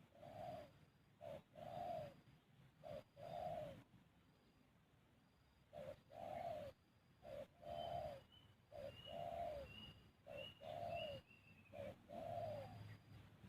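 Dove cooing: repeated two-part calls, each a short note followed by a longer one, about one pair every second and a half, with a pause of about two seconds roughly four seconds in. A fainter, higher chirping from another bird comes in over the middle.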